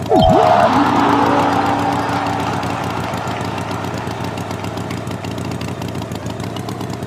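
Steady engine hum, typical of an animated tractor, with a sudden sound effect at the start: a very fast pitch swoop down and back up, then a burst of noise with a held tone that fades away over about three seconds.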